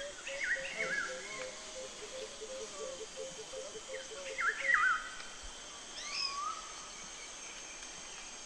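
Rainforest birds calling: two bursts of quick slurred whistled notes, a few rising upslurred calls later on, and a low, rapid pulsed call in the first few seconds, over a faint steady high insect drone.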